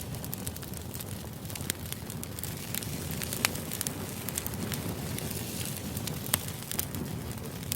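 Steady low background noise with scattered, irregular sharp crackles and clicks, a few a second.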